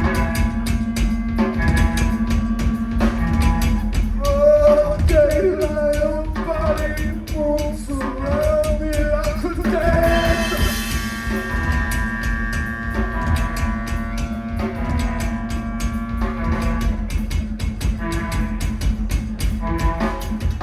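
Live band music: a drum kit played fast and busy throughout under sustained pitched tones, with a wavering pitched line between about four and ten seconds in and a held chord after it.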